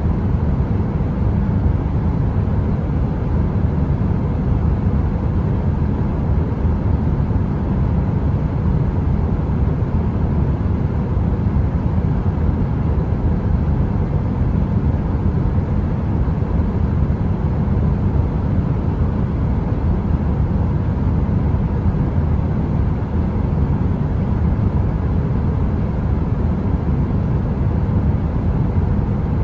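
Heater running steadily: an even, deep rushing noise like brown noise, heaviest in the low end, with a faint steady hum.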